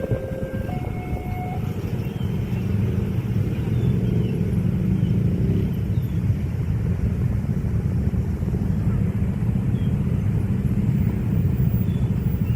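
A long train passing close by at speed: a steady, heavy rumble of wheels on the rails that grows louder about two seconds in. Right at the start, a held horn note ends.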